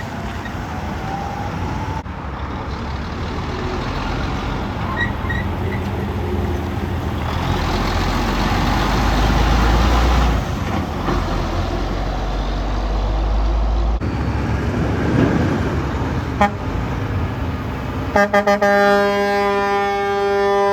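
Heavy trucks driving past on a road, a deep engine and tyre rumble building to its loudest near the middle. Near the end a truck horn gives a few quick stuttered toots and then a long steady blast.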